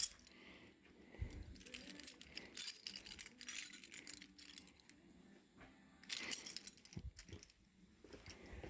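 A bunch of car keys jangling in short bursts, mostly from about two seconds in and again about six seconds in.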